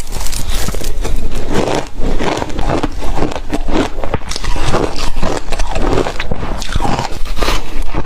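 Ice being bitten and chewed close to the microphone: a loud, continuous run of crunching and cracking.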